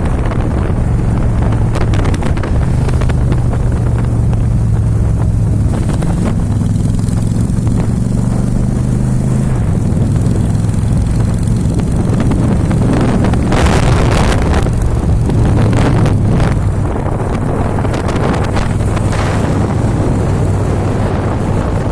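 Motorcycle engine running under way, its pitch rising and falling with the throttle, with wind buffeting the microphone in loud gusts partway through.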